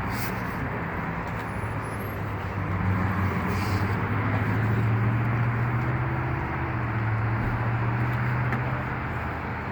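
A vehicle engine running steadily: a low hum over road or ambient noise that grows a little stronger midway and eases again near the end.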